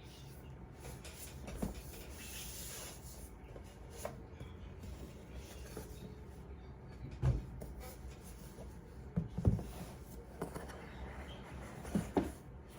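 Hands handling a box and its packaging: scattered soft knocks and rubbing, with a brief rustle about two seconds in.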